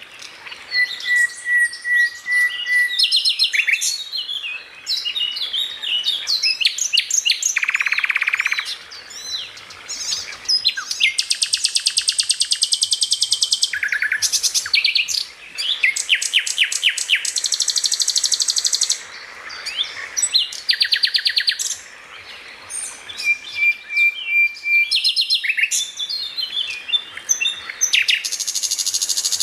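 Songbird singing a varied masteran song: rapid trills of repeated notes, chattering phrases and a few level held whistles, with short pauses between phrases.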